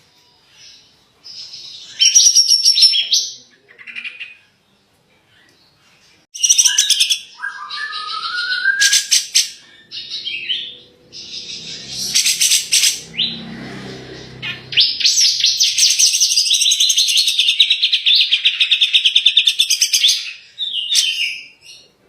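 Cucak jenggot (grey-cheeked bulbul) singing in loud, sharp bursts: short whistled phrases with pauses between them, a rising whistle about eight seconds in, then a long, fast trilling phrase from about fifteen to twenty seconds in.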